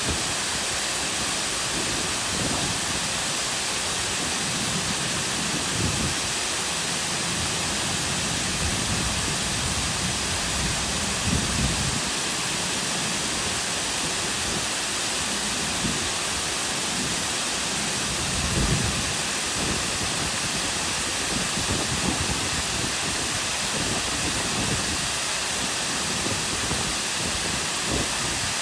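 Cascading waterfall with a steady rush of falling water and brief deeper surges every few seconds.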